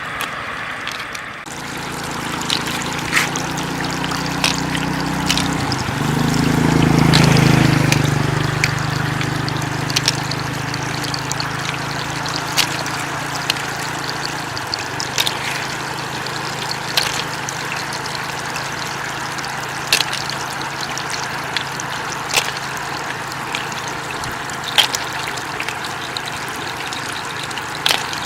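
Floodwater flowing and trickling steadily, with scattered sharp clicks. A low hum swells to its loudest about seven seconds in, then settles back.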